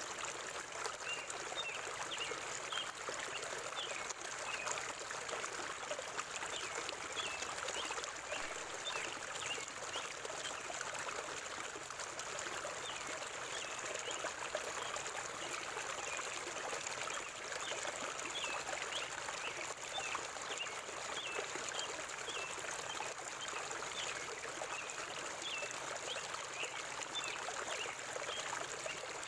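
River water flowing steadily, with small birds chirping in short, repeated notes throughout.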